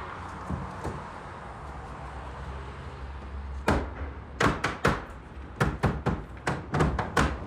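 A quick, irregular run of sharp knocks on wood, a dozen or so at about three a second, starting about halfway in, over a steady low hum.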